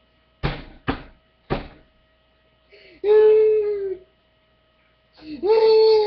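Three quick thumps, then a man wailing in two long drawn-out notes, the second one sliding up and then held, over a steady electrical hum.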